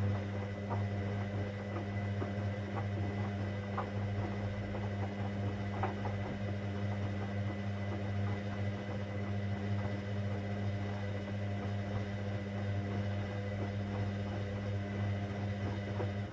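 Hoover Dynamic Next washing machine running mid-cycle on a cotton 60 programme: a steady low hum with a few faint clicks, which stops abruptly near the end.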